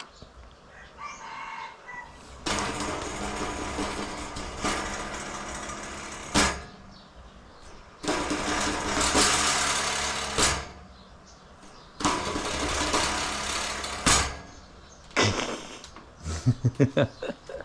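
Brush cutter engine firing up and running for a few seconds, then cutting out, three times over: the engine will not keep running. A few short clucks near the end.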